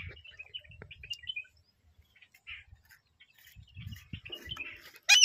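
Pet parrot chirping in short, soft bursts, with one loud, sharp call near the end.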